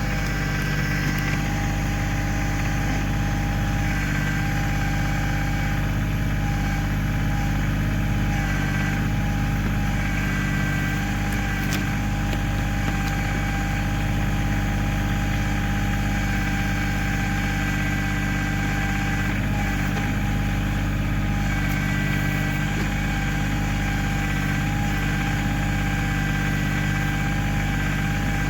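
Kioti CK2610 tractor's three-cylinder diesel engine running at a steady speed.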